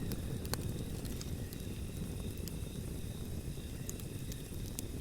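Campfire crackling: scattered sharp pops, about one a second, over a steady low rumble.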